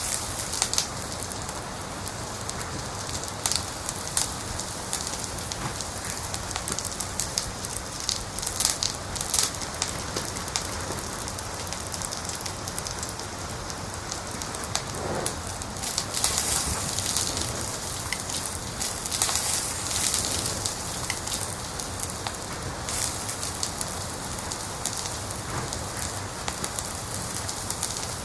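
Wood fire crackling in a fireplace: a steady hiss of flame with irregular sharp pops and snaps, which come thicker at times.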